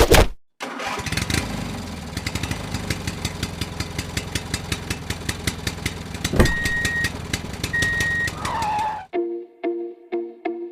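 DIY mini tractor running with a steady engine-like sound and rapid even ticking, with two short high beeps a bit past halfway. It cuts off suddenly near the end, where a repeating plucked-string music loop takes over.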